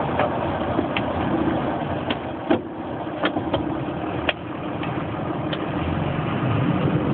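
Scania diesel engine running steadily, likely at idle, with a dozen sharp clicks or rattles scattered through the sound.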